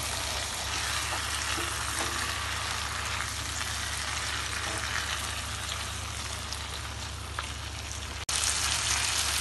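Prawns and onion-tomato masala sizzling steadily in a nonstick wok as they are stirred with a silicone spatula. About eight seconds in the sizzle cuts off abruptly and returns louder.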